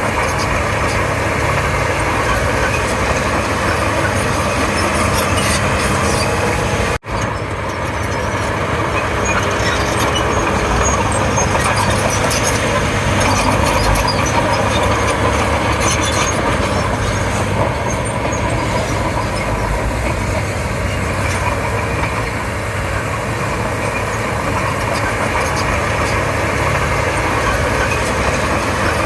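Komatsu D31P crawler bulldozer working, its diesel engine and steel tracks running steadily and loudly. The sound cuts out for an instant about seven seconds in, then carries on the same.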